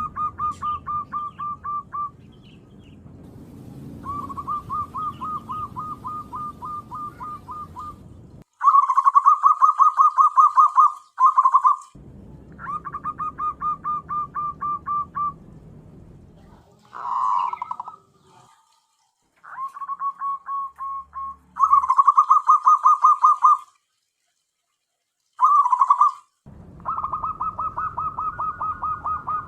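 Zebra dove (perkutut) calling in rapid runs of short, repeated notes, in bouts of a few seconds broken by abrupt gaps.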